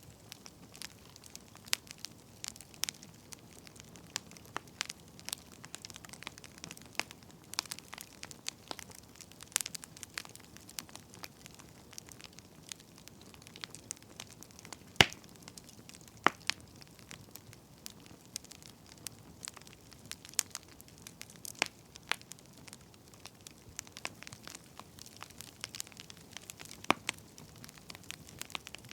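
Wood fire crackling: irregular pops and snaps over a soft steady hiss, with one sharper pop about halfway through.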